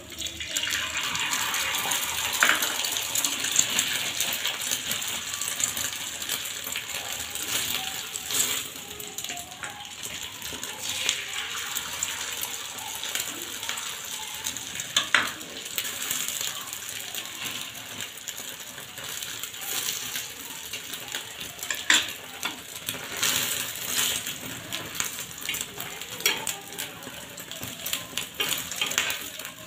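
Beaten egg and bread frying in oil on a hot flat griddle: a steady sizzle with scattered sharp pops and crackles. The sizzle swells for a few seconds just after the start, as the egg is poured onto the pan, then settles.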